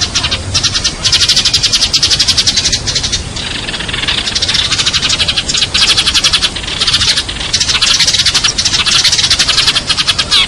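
A flock of sparrows chirping and chattering, rapid high chirps several per second, with short breaks, as used for a sparrow lure call.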